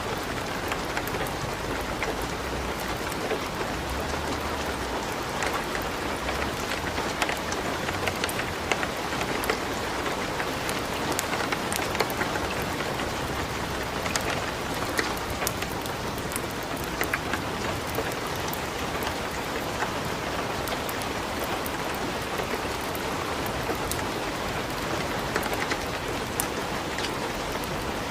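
Steady light rain mixed with a wood fire crackling in a fireplace, with many small sharp pops scattered through it.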